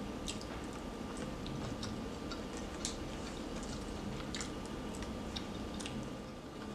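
Close-miked chewing and lip-smacking while eating fried shrimp: scattered soft, wet mouth clicks over a faint steady hum.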